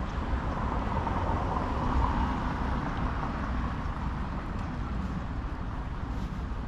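A road vehicle passing by, its noise swelling to a peak about two seconds in and then fading, over a steady low rumble.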